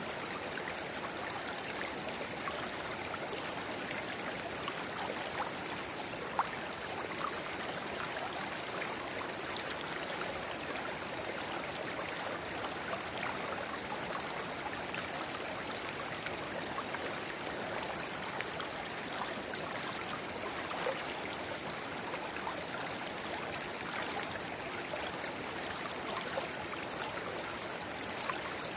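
River water babbling steadily, with a narrow spring-water inflow trickling into the main stream. Small sharp splashes stand out now and then, the clearest about six seconds in and near twenty-one seconds.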